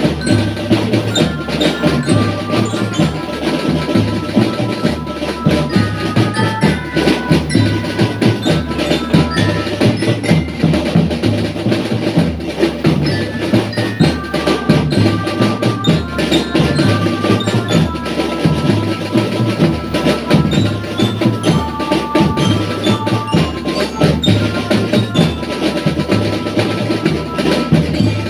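A school marching drum band playing a tune: drums keep a steady beat while a glockenspiel-like bell lyra plays the melody in short, clear high notes.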